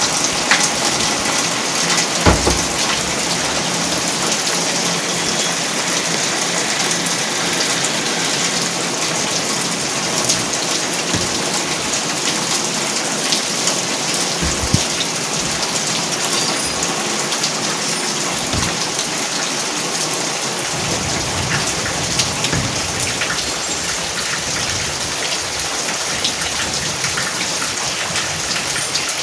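Steady rain falling on a surface, a constant dense patter with a few louder single drops standing out.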